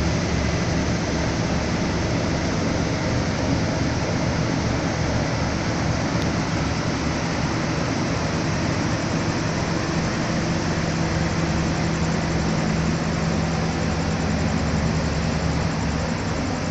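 Diesel-hauled passenger train running, with a steady hum over a low, evenly pulsing throb.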